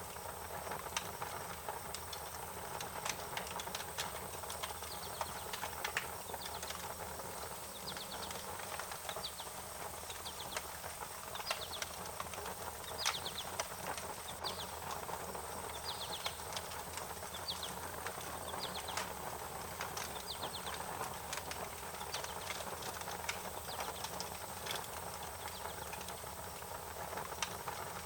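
Wood fire crackling, with frequent sharp pops and snaps over a steady hiss. Birds chirp in short series in the background.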